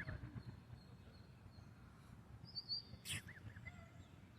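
Faint peeping of newly hatched goslings: a few short chirps at the start and again about three seconds in, with a brief higher trill a little past the middle and a single click just after three seconds.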